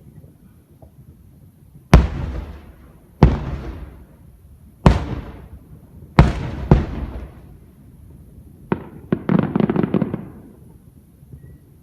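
Aerial firework shells bursting: five loud booms, each fading away in a rumbling tail, then a quick run of crackling pops near the end.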